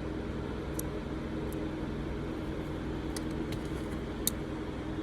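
Steady low background hum with a few faint, sharp little clicks spread through it: small metal parts of a vintage lighter's mechanism being nudged into place with a toothpick.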